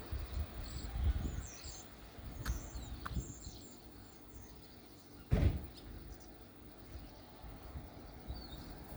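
Wind rumbling unevenly on the microphone, with faint high bird chirps in the first three seconds and again near the end, and a single dull thump about five and a half seconds in.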